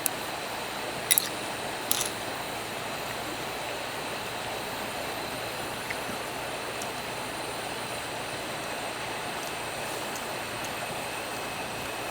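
Eating sounds from a bowl of ramen: a few short sharp sounds in the first couple of seconds, then only a steady background hiss.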